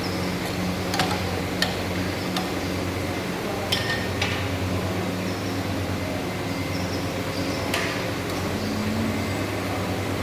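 Motor-driven khoya (mawa) making machine running with a steady hum. Several sharp metallic clicks and knocks are scattered through it.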